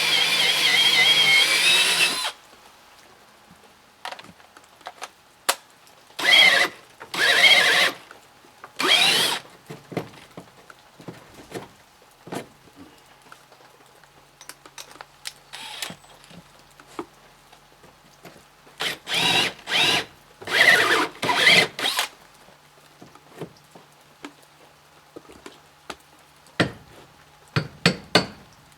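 Cordless drill-driver driving screws into wood, the motor whining in several short runs with light clicks and knocks between.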